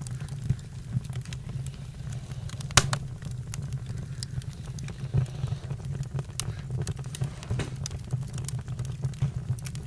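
Campfire crackling: scattered sharp pops and snaps over a steady low rumble, the loudest pop about three seconds in.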